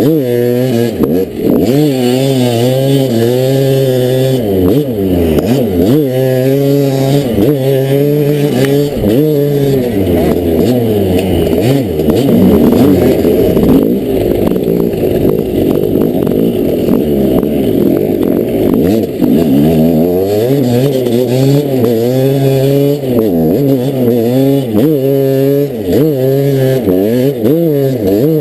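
Dirt bike engine revving, its pitch climbing and dropping again and again as the throttle opens and closes and the gears change.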